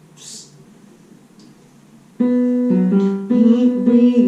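A sung phrase ends on the word "leaves", then after about two seconds of quiet a keyboard comes in with sustained chords, changing every half second or so.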